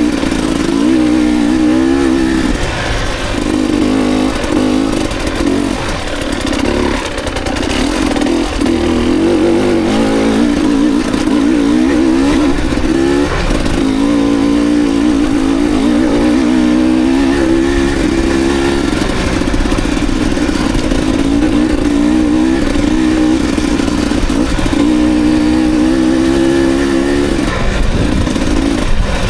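Dirt bike engine running hard while being ridden, its pitch rising and falling again and again as the throttle is opened and closed.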